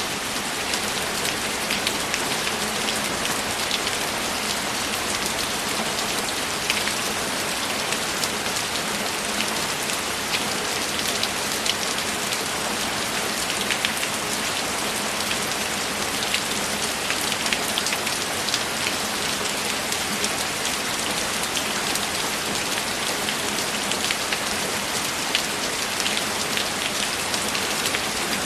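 Steady rainfall: a continuous even hiss with many scattered sharper ticks of individual drops, and no thunder.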